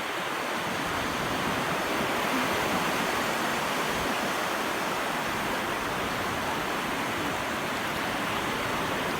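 Steady rush of sea water washing and breaking on the beach, an even hiss without a break.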